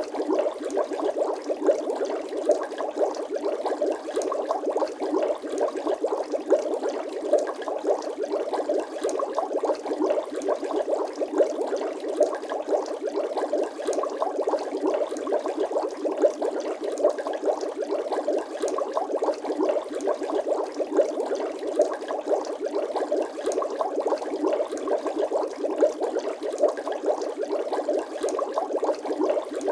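Bubble sound effect: a continuous, dense bubbling like air bubbling up through water, many small quick pops without a break.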